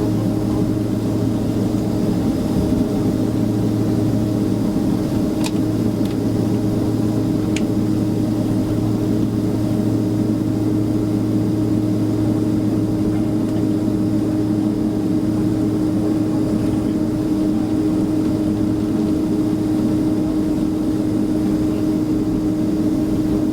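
Steady, even hum inside the cabin of a Boeing 767-300ER airliner, with two faint brief clicks in the first third.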